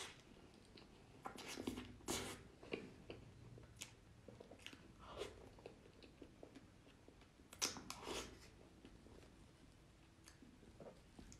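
Close-miked mouth noises of someone eating spoonfuls of soft cream cake: quiet, wet chewing, with a few louder bursts around two seconds and near eight seconds in.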